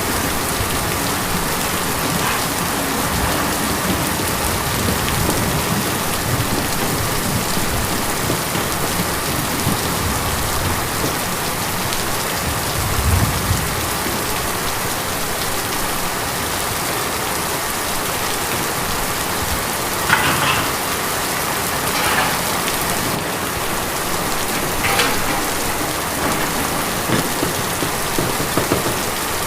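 Steady rain falling on a tin roof, an even patter, with a few louder single drops in the second half and a brief low rumble partway through.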